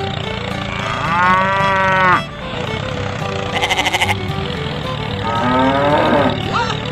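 Farm animal calls, moo- and bleat-like, over steady background music: a long call about a second in, a short quavering bleat in the middle, and another call near the end.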